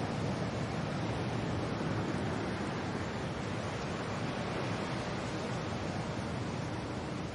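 Steady wind and rain: an even, unbroken hiss with no separate drops or gusts standing out.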